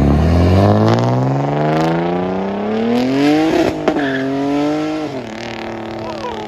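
A BMW 3 Series coupe's engine accelerating hard as the car pulls away, its pitch climbing steadily. About three and a half seconds in there is a brief break with two sharp cracks as it shifts up, then it pulls again before easing off and fading near the end.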